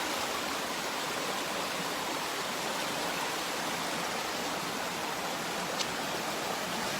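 Rain-swollen creek water rushing steadily over rocks, with one faint click a little before the end.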